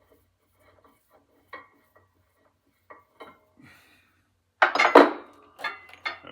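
Small metal parts clinking and knocking together as they are handled, with light scattered clicks at first and a loud rattling clatter of metal about four and a half seconds in, then a few sharp clinks.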